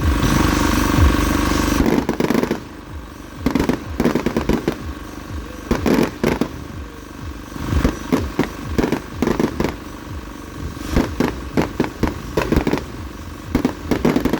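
Fireworks going off: a loud rushing burst for the first two seconds, then clusters of sharp cracks and crackles that come in groups every second or two.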